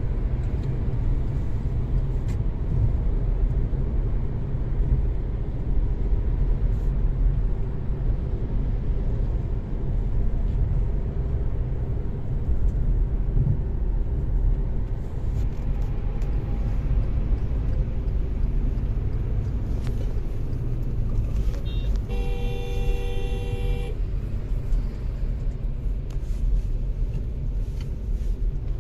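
Hyundai i20 driving on a highway: a steady low rumble of engine and road noise. About three-quarters of the way through, a vehicle horn sounds for about two seconds.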